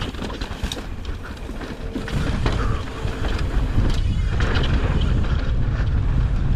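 Mountain-bike ride noise: a low rumble of wind on the microphone with scattered clicks and knocks from tyres on dry, loose dirt and rock. The rumble grows louder about two seconds in.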